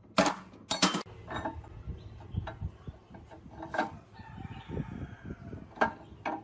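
Metal parts and tools clinking and knocking as they are handled, with sharp clinks just after the start, near the middle and near the end, and softer low knocks between them.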